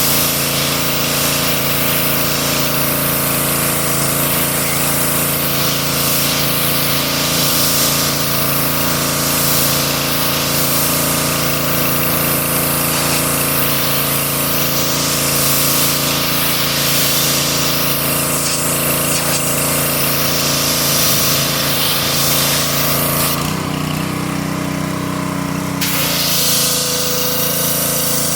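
Engine-driven pressure washer running steadily and spraying, the hiss of the spray rising and falling as the wand moves. Near the end the spray cuts out for about two seconds while the engine keeps running, then starts again.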